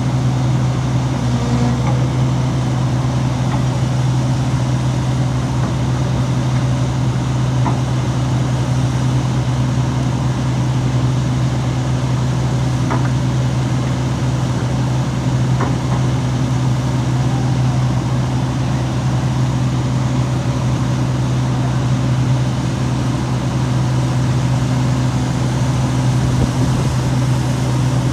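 Heavy diesel engine of earthmoving machinery running steadily at a constant speed, with a few faint light knocks over it.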